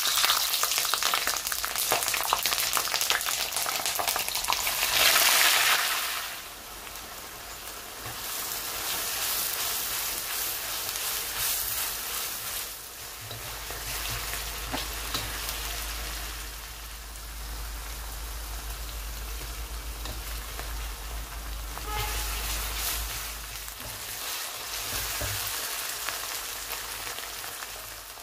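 Green chillies dropped into hot oil in a wok, sizzling loudly at once; the sizzle eases after about six seconds to a steadier, quieter frying sizzle as a thick mixture is stirred in the wok with a spatula.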